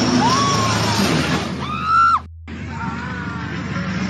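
Spectators screaming and shouting in alarm over crowd noise, with one loud, high scream about two seconds in; the sound then cuts out briefly.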